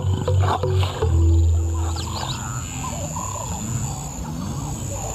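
Lions growling deeply in two long swells over the first two seconds, then birds chirping.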